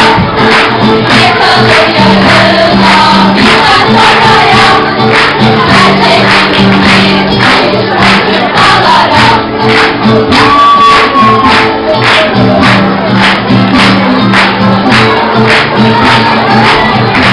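Loud live music: many voices singing together over held low notes and a steady, sharp percussive beat.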